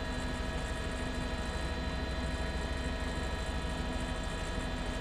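News helicopter's engine and rotors heard from inside the cabin: a steady drone carrying several constant tones.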